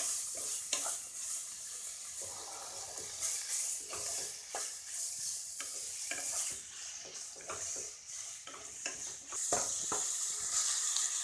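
Chicken pieces sizzling in hot oil in a pan on high flame, with a spatula scraping and knocking against the pan at irregular intervals as they are stirred.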